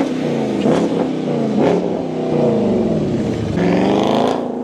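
A car engine being revved, blipped several times about a second apart, with a longer rev near the end.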